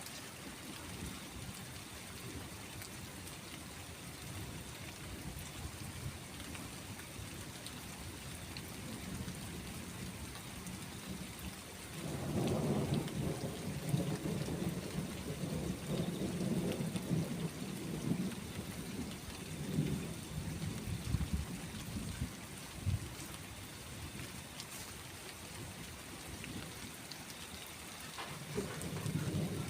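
Steady rain falling, with rolling thunder. A long roll of thunder starts a little before halfway and rumbles on for several seconds, and another roll begins near the end.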